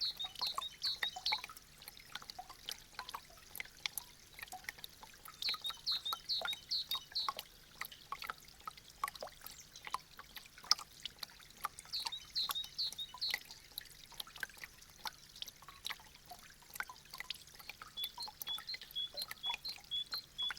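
Meltwater dripping from melting icicles: a dense, irregular patter of drips and splashes. High chirping phrases come in about every six seconds, and near the end a single high note repeats about twice a second.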